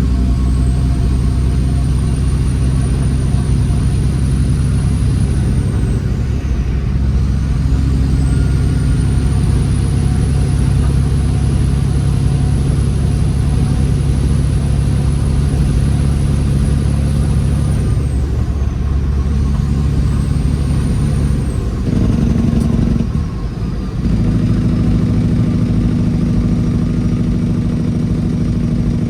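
Detroit Series 60 diesel in a straight-piped Peterbilt 389 glider running under load, with a high turbocharger whistle that spools up, holds, and falls away three times. The engine note dips briefly near the end before picking up again.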